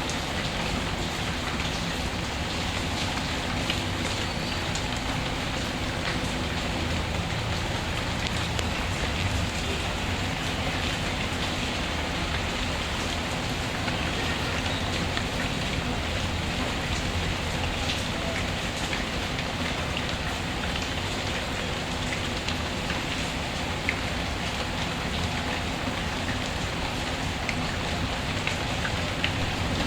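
Steady rain falling on a surface in a dense, even patter, with scattered small crackles from a wood fire.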